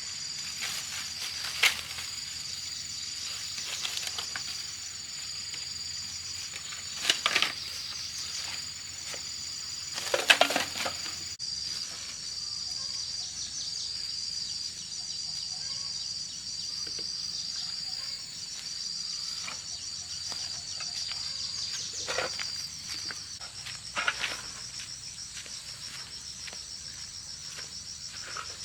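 Insects chirping in a steady, high-pitched, finely pulsing chorus, broken by a few short, louder rustles and knocks, the loudest about ten seconds in.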